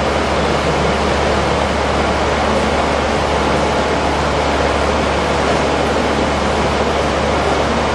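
Hobart 4732A stainless steel meat grinder running steadily: an even mechanical whir with a constant low hum underneath.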